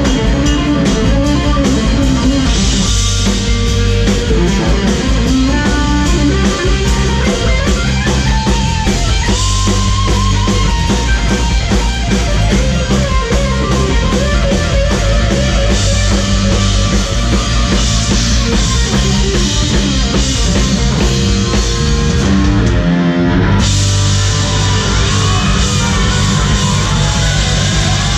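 Rock music: a band with electric guitar and drum kit, the guitar lead bending notes up and down. There is a short break near the end before the full band comes back in.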